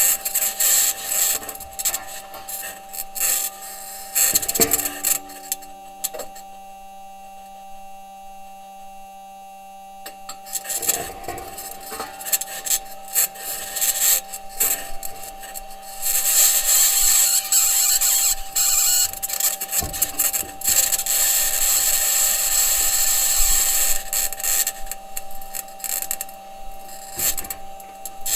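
Perseverance Mars rover's aluminium wheels and suspension rattling and scraping over rocky ground as it drives, recorded raw by its onboard microphone, with a high-pitched scraping noise and a faint steady hum underneath. It eases into a quieter lull about six seconds in, picks up again around ten seconds, and is loudest and densest from about sixteen to twenty-four seconds.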